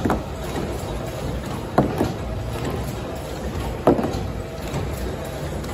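CH 380 BOPP film overwrapping machine running, a steady mechanical noise with a sharp clack repeating about every two seconds as it cycles.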